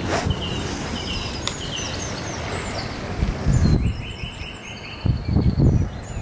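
Songbirds singing in phrases of quickly repeated short chirps, at times two birds at once at different pitches. Wind buffets the microphone in two gusts in the second half.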